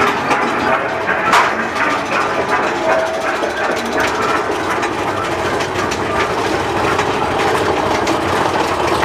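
Mine-train roller coaster rattling and clattering along its track, with wind noise, a dense run of clicks and knocks.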